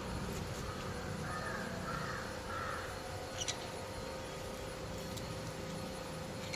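A crow cawing three times in quick succession, followed about a second later by a short sharp click.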